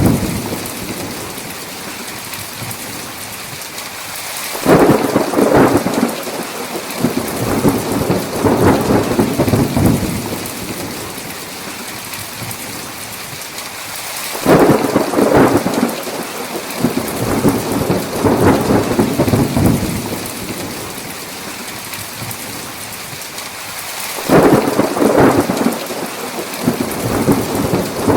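Heavy rain falling steadily, with three rolls of thunder about ten seconds apart, each starting suddenly and rumbling for several seconds before fading back into the rain.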